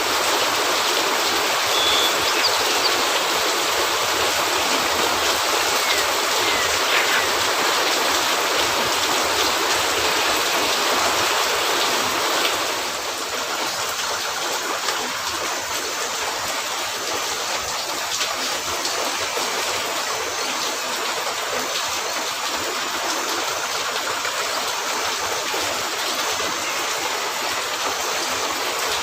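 Steady heavy rain, an even hiss that drops a little in level about thirteen seconds in.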